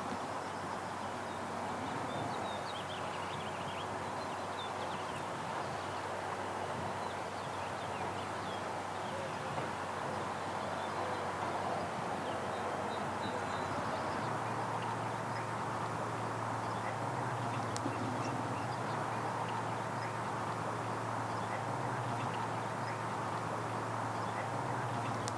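Outdoor ambience: a steady background hiss with faint, scattered small bird chirps, and a low steady hum that comes in about halfway through.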